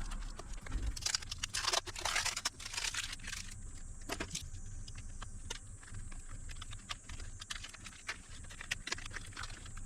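Clicks, taps and light metallic rattles of hands working on a portable power station's casing, screws and tools during disassembly. The noise is densest in the first few seconds and becomes sparser afterwards.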